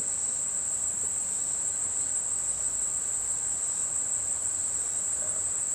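Insect chorus: a steady, unbroken high-pitched buzz.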